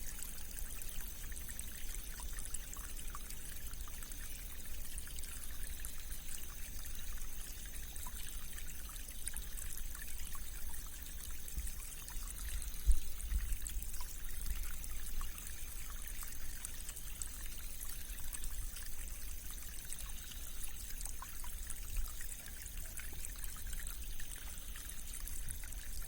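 Rain-swollen stream flowing and trickling, a steady watery rush full of small bubbly ticks. A brief low thump about halfway through.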